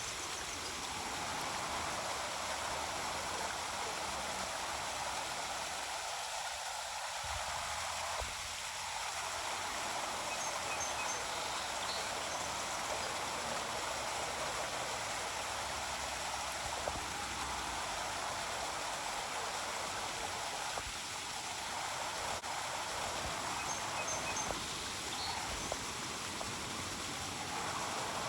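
Steady rushing of a herring-run brook's flowing water.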